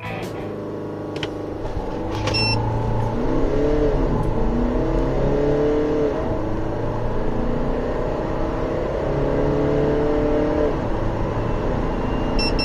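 Volkswagen Multivan 6.1's 2.0 TDI twin-turbo four-cylinder diesel accelerating hard from a standstill. The engine note climbs in pitch through each gear and drops back at the automatic gearbox's upshifts, several times.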